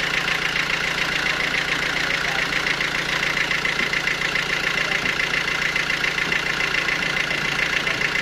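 Sawmill machinery running steadily, with a fast, even pulse.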